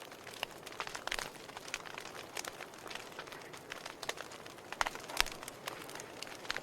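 Logs burning in a fireplace, crackling with frequent irregular sharp pops over a steady hiss; the loudest pops come about five seconds in.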